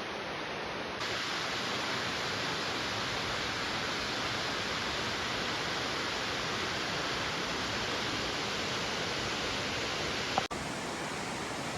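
Steady rushing hiss of falling water from a waterfall, with a short click and dropout about ten seconds in.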